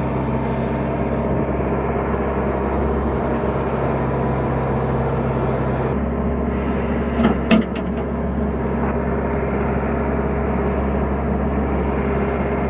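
Tractor engine running steadily under load. Its note shifts about six seconds in, and a brief double knock or clatter comes about halfway through.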